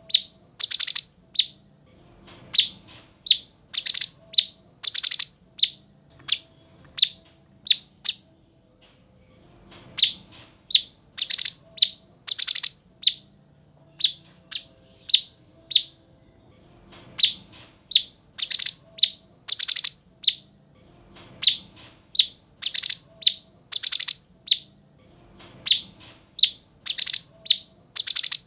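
Cucak cungkok songbird calling loudly: quick series of short, sharp high chirps mixed with harsher rasping notes, in phrases broken by brief pauses.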